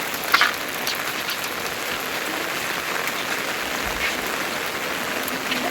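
Steady rain falling, with one short sharp knock about a third of a second in.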